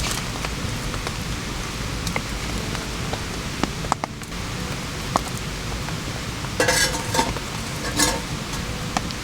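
Steady rain hissing, with scattered drops ticking. Two louder, brief sounds come about two-thirds of the way in and again near the end.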